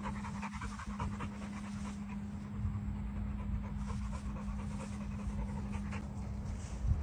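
A dog panting in quick, even breaths over a steady low hum.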